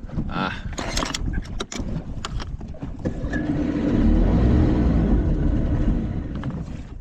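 Outboard motor on an old bass boat, which has a stalling problem, starting up a few seconds in after some knocks and handling noise. It runs loudest for a couple of seconds, then falls off near the end as if about to stall.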